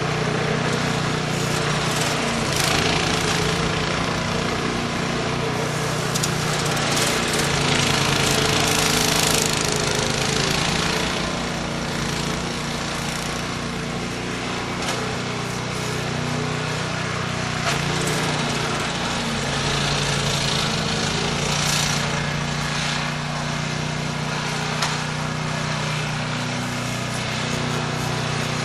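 Engine of a snow-clearing machine running steadily, its pitch and load shifting slightly now and then, with a steady hiss over it.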